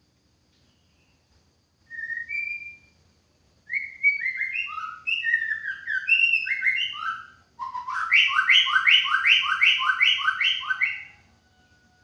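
White-rumped shama singing: a couple of short whistles, then a run of varied clear whistled notes, then a quick phrase repeated evenly, about three times a second, for some three seconds before it stops.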